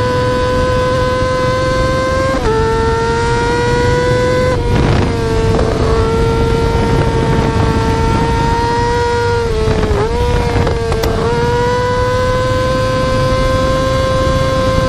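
Yamaha R6 inline-four sport-bike engine held at very high revs, a steady high-pitched wail whose pitch steps briefly down and back up a few times as it shifts or blips the throttle.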